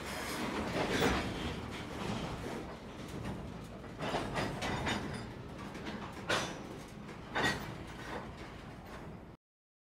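Covered hopper cars of a slow-moving freight train rolling past on the rails: a steady wheel rumble with clanks every so often, the sharpest about four, six and seven seconds in. The sound cuts off suddenly shortly before the end.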